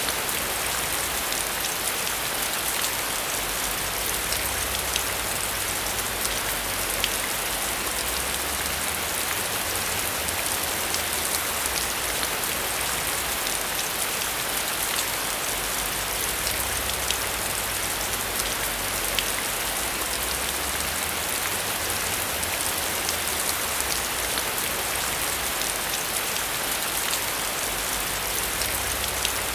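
Heavy rain falling steadily: a dense, even hiss with many sharp individual drops ticking through it.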